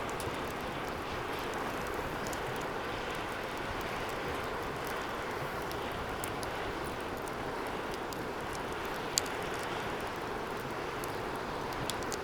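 Wood fire burning in a steel fire pit: a steady rush of flame with scattered light crackles, and one sharp pop about nine seconds in.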